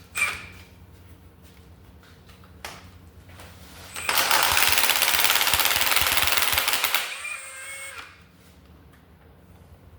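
Air impact wrench rattling hard for about three seconds, starting about four seconds in, working a bolt on an LS engine's exhaust manifold.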